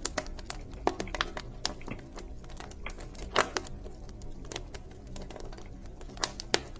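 Wood fire crackling in a fireplace: irregular sharp pops and snaps over a low, steady rumble of the flames, with one loud pop about three and a half seconds in.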